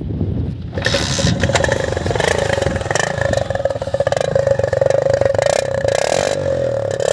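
Single-cylinder TVS Star City motorcycle engine revving up about a second in and running on, its exhaust blowing through an empty drink can fixed over the silencer outlet as a home-made sound changer, giving a rapid pulsing with a steady buzzing tone over it.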